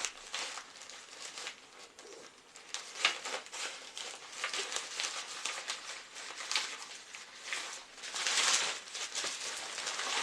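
Packaging rustling and crinkling as items are handled and unpacked, with scattered light clicks and knocks; a louder stretch of rustling near the end.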